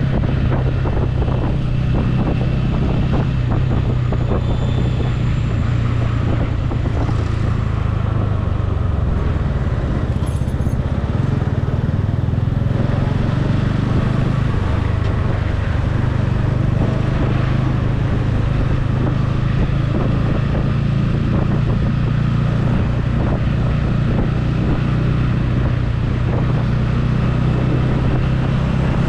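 Motorcycle engine running at a steady pace on the move, a low steady hum under road and traffic noise.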